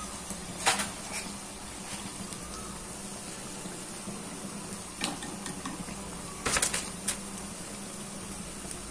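Potato cutlets shallow-frying in hot oil: a steady sizzle. A steel slotted spoon clinks against the pan a few times, near the start, about five seconds in, and in a short cluster around six and a half seconds in.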